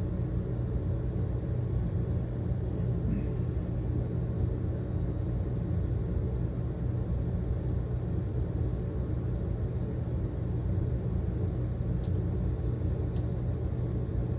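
Steady low mechanical rumble with an unchanging low hum.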